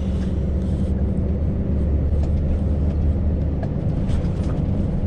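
Scania V8 truck driving steadily: a constant low engine drone with road noise.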